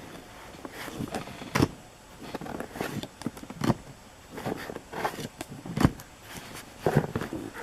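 Trading cards and foil pack wrappers handled at close range: irregular rustles, slides and light knocks, a few every second.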